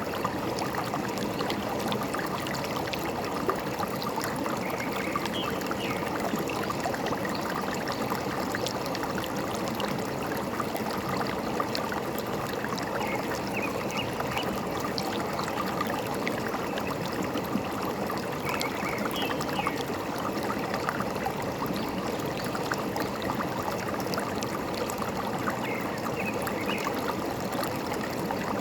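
Forest stream babbling and trickling over rocks, a steady rush dotted with small splashes, with a few short, faint bird chirps every several seconds.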